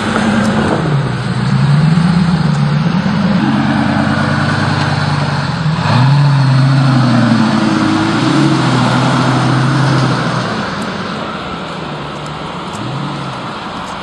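Lamborghini Aventador engine with a mufflerless straight-pipe exhaust, revving and held at high revs, its pitch climbing and dropping several times, then fading away over the last few seconds.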